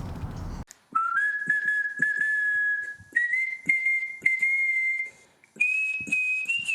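Someone whistling a slow tune in long held notes that step up in pitch, then drop and climb again near the end, over soft, irregular knocks.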